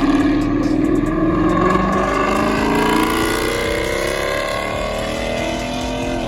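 A car engine accelerating, its pitch rising steadily over several seconds.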